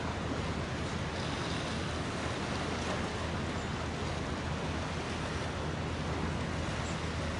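Steady rushing noise of wind and water, with a low, even hum underneath.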